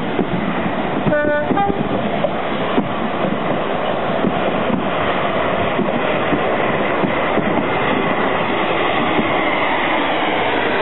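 A train moving on the rails with a steady running noise and faint repeated clicks from the wheels. A short pitched note sounds about a second in.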